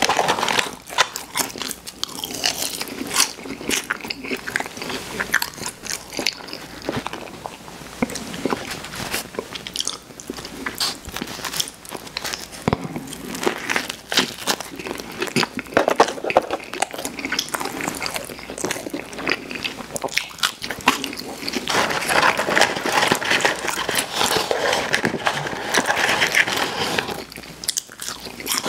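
Close-miked eating of McDonald's fries and a Filet-O-Fish sandwich: bites and chewing, with a dense run of crunching and mouth clicks.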